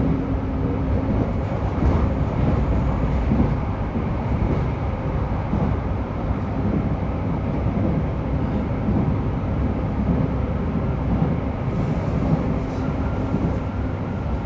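Running noise heard inside JR Hokkaido 731-series electric car MoHa 731-109 as it travels between stations: a steady rumble of wheels and traction motors. It includes the roar from the motor on one bogie that sounds like an old nose-suspended (tsurikake) motor, an abnormal noise peculiar to this car.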